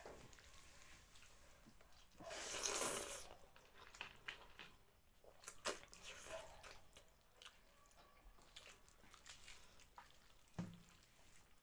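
Close-up eating sounds from someone eating thukpa noodle soup by hand: wet chewing and small mouth clicks, with one longer, louder noisy stretch about two seconds in.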